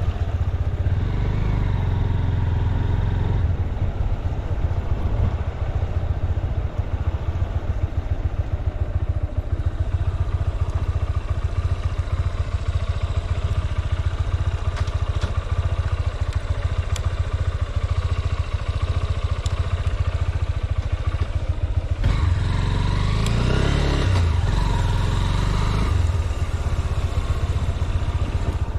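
Honda CB200X's single-cylinder engine running on the move, with the engine speed rising and falling about three-quarters of the way through.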